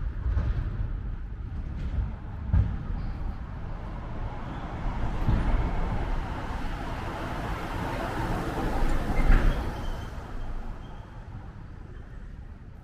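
City street traffic: a vehicle passes, its noise swelling to a peak about nine seconds in and then fading away.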